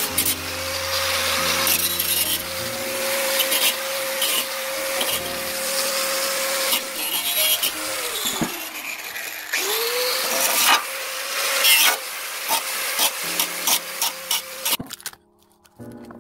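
Rasping scrape of rust being scrubbed off a heavily rusted metal pot lid, continuous at first, then in separate short strokes and knocks, stopping about fifteen seconds in.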